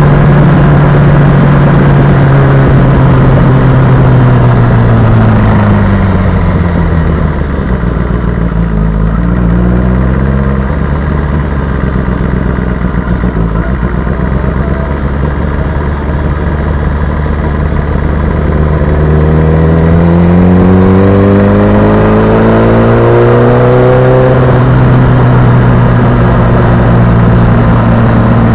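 Sport motorcycle engine running under way. Its pitch drops as the bike slows over the first several seconds and stays low for a while. About two-thirds of the way through it climbs as the bike accelerates, falls back once at a gear change, then holds steady at cruising speed.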